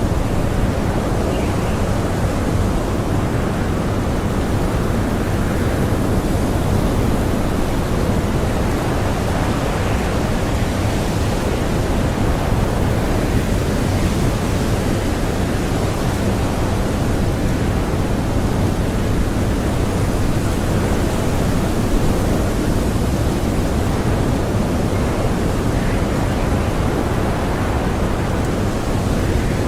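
Blizzard wind blowing strongly and steadily, a constant low noise with no gusts or breaks.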